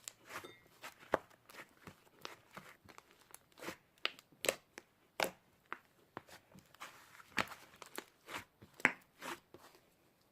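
Cloud slime being squeezed and pulled by hand, giving a run of irregular soft crunching and tearing crackles.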